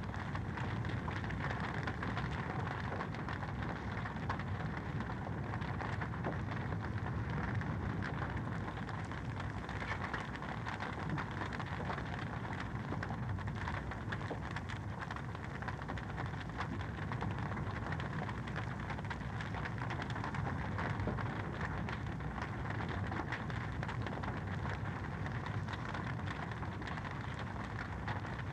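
Fireplace fire crackling steadily: a continuous hiss scattered with many small, fast pops and snaps.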